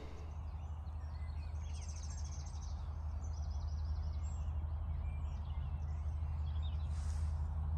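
Small birds chirping and twittering over a low, steady rumble.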